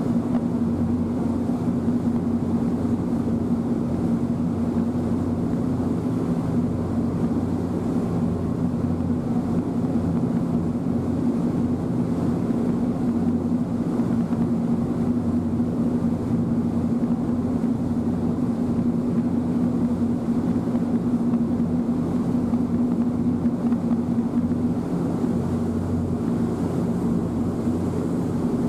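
Passenger ferry's engine heard on board, running at a steady cruise: an even low drone with a constant hum that does not change in pitch.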